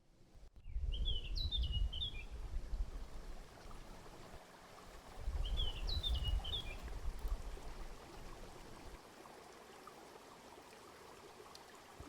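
A songbird's short phrase of quick, zigzagging chirps, heard twice about four seconds apart, over low rumbling outdoor noise.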